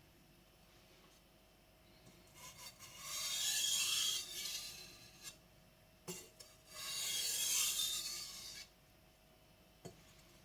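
Blue-steel gyuto blade being drawn across a wet Naniwa whetstone, a gritty scraping rasp in two long spells of strokes a few seconds apart, with a couple of small clicks in between.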